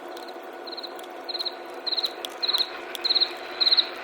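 Cricket chirping: short chirps of three or four quick pulses, about one every 0.6 seconds, growing louder, with a few faint clicks among them.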